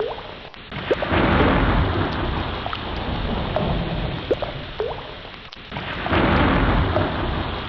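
Sea waves surging in two long swells of rushing water, about a second in and again about six seconds in, dying back between them. Short rising chirps come through now and then.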